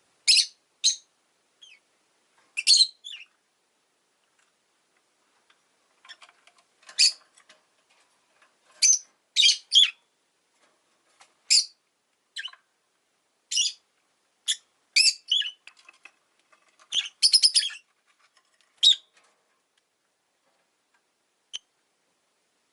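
Rosy-faced lovebird giving short, sharp, high-pitched chirps at irregular intervals, with pauses of a few seconds between them and a quick run of several calls in a row about three quarters of the way through.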